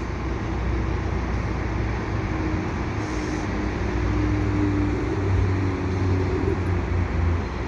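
Diesel commuter-train locomotive running with a steady low drone, its pitch shifting slightly partway through.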